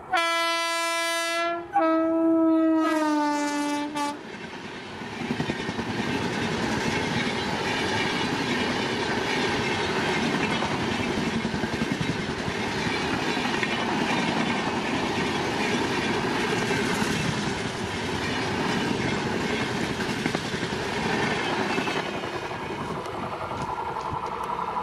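WAP-7i electric locomotive sounding two horn blasts, the second dropping in pitch as it passes. The long-distance express's coaches then rush past at full speed with a steady rumble and wheel clatter, easing a little near the end.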